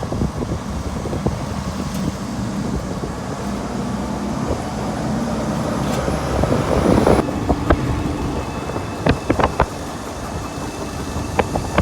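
Riding in the open back of a three-wheeled pedicab: steady road and motor noise with some wind. From about halfway through come a series of sharp clicks and knocks.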